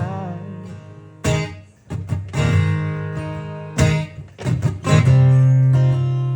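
Acoustic guitar strummed with uneven strokes, the chords ringing out fuller and steadier from about five seconds in.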